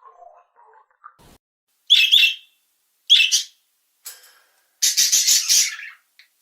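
A bird calling: two short, high chirps about a second apart, then a longer, rapidly pulsed call near the end.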